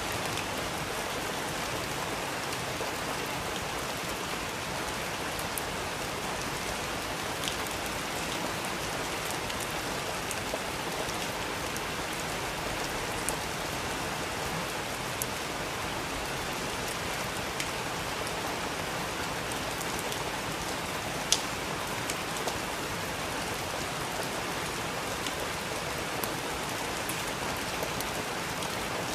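Steady rain falling, an even hiss with scattered drips and taps landing on a surface, one sharper drop about 21 seconds in.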